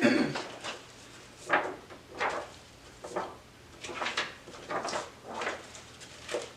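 A series of short rustling and scraping handling noises, about a dozen in irregular succession, with no voice.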